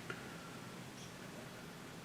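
A faint, short high-pitched chirp from a small animal about a second in, over a steady quiet hiss, with a light click at the very start.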